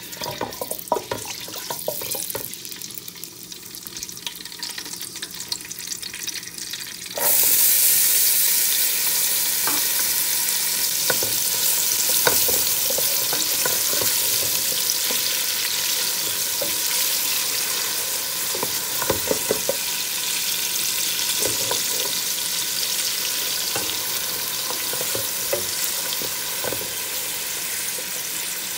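Cumin seeds sizzling in hot oil in a steel pot, with scattered crackles. About seven seconds in, sliced onions go into the oil and the sizzle jumps suddenly louder. It then keeps frying steadily while a wooden spoon stirs and knocks against the pot.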